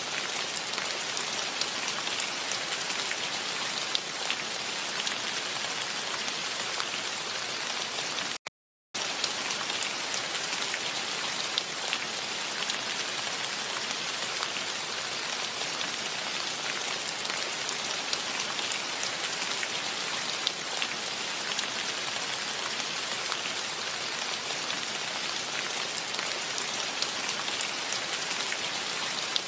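Steady rain falling, with scattered individual drops ticking through it. The sound cuts out completely for about half a second about eight seconds in, then carries on unchanged.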